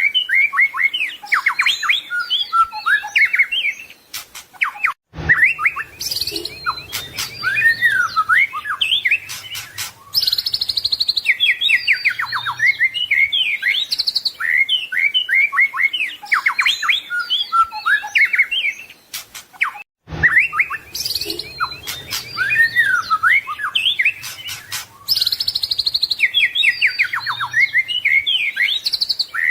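White-rumped shama song: a fast, varied stream of whistled, trilled and chattering phrases, with brief breaks about five and twenty seconds in, after which the same passage repeats as a loop.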